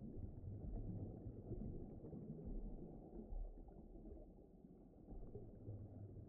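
Deep, muffled ambient rumble that swells and ebbs gently, with no sharp sounds in it.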